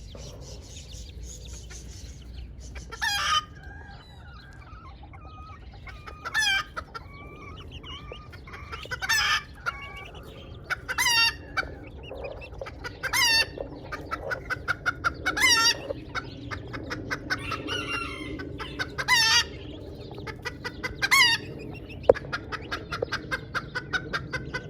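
Kikiriki bantam chickens clucking, with a short, loud call about every two to three seconds, about ten in all.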